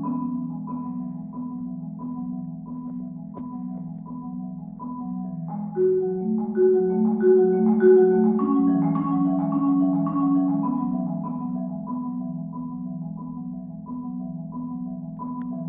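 Solo marimba playing a low chord that is rolled steadily. Above it, a single high note is struck over and over, about every 0.7 seconds. About six seconds in, the lower part steps up in pitch and the playing gets louder, then it settles back down.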